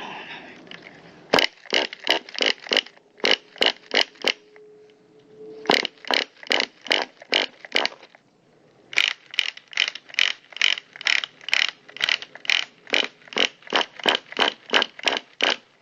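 Recoil pull-starter on an RC buggy's small two-stroke engine, yanked in three bouts of quick short pulls, each stroke a brief rasp of rope and ratchet about three times a second. The engine never fires: it won't start, though the owner says it is not flooded.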